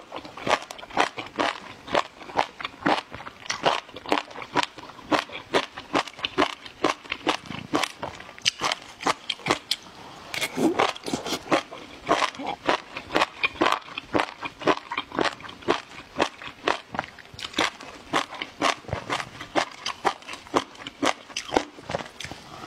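Close-miked crunchy chewing of jellyfish, a steady run of wet, crisp crunches at about three a second.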